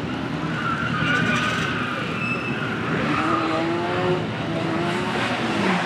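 Slalom car's engine revving and easing off, its pitch rising and falling continuously as it drives through the course.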